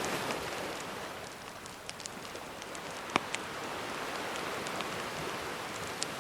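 Gentle sea waves washing in a steady hiss that swells at the start and eases a little, with a campfire crackling over it: scattered sharp pops and snaps, the loudest about three seconds in.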